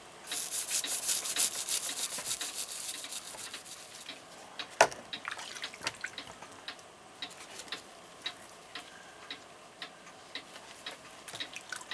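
Quick brushing strokes scrubbing hardened old grease off clock movement parts, then scattered light clicks and one sharp knock about five seconds in as the parts are handled.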